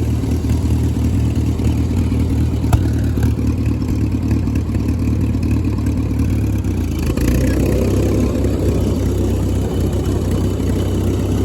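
1937 Massey-Harris 25 tractor engine running steadily as the tractor drives under its own power. There is a single sharp click near three seconds, and the engine note gets fuller about seven seconds in, as it pulls in top gear.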